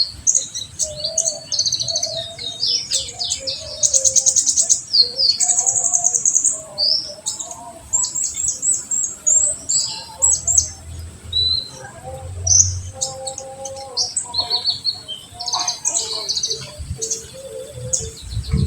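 Olive-backed sunbird (kolibri ninja) singing continuously in its full 'tembakan' song: a dense run of sharp high chirps and rapid trills, with softer lower notes beneath.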